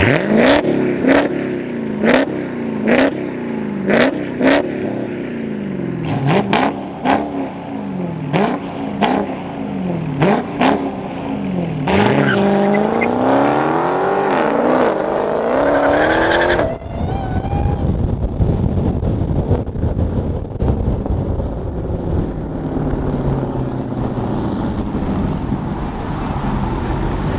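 Mopar V8 engine revved in quick blips, about one a second, each rising and dropping with a sharp crack. Then comes one longer rev that climbs and falls, and from about two-thirds of the way in it settles into a steady low rumble.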